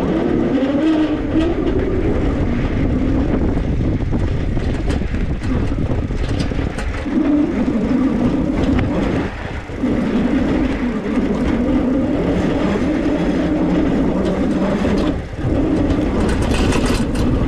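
An e-bike in motion: a steady hum over rushing noise. It drops away briefly twice, once near the middle and once about three-quarters through.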